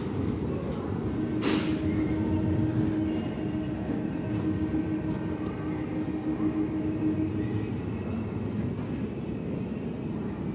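Passenger coaches of a departing express train rolling past, with a steady rumble of wheels on the rails. There is a single sharp clack about a second and a half in, and a steady low tone that runs until near eight seconds in.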